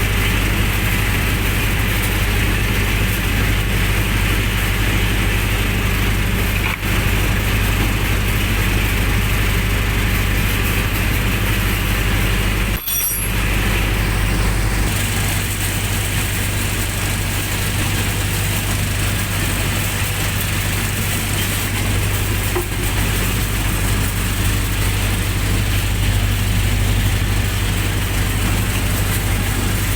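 Generator set engine running steadily, with two very short breaks about 7 and 13 seconds in.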